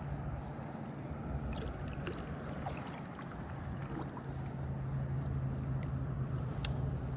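Boat motor running steadily, a low drone that grows a little stronger about halfway through, over water noise with a few light ticks.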